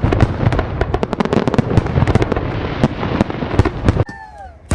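Fireworks going off: a dense, rapid barrage of bangs and crackle that stops abruptly about four seconds in, then one more sharp bang near the end.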